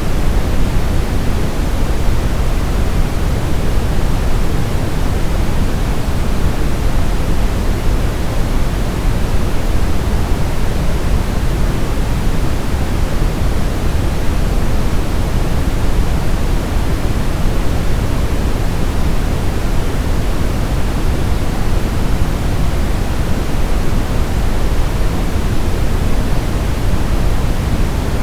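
Steady, unbroken electronic noise for infant sleep: an even hiss, fuller in the bass and thinning toward the highs, with no change in level.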